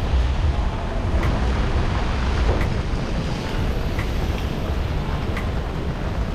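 Steady downpour of rain on a city street and on the umbrella overhead, with wind rumbling on the microphone. Faint ticks come about every second and a half.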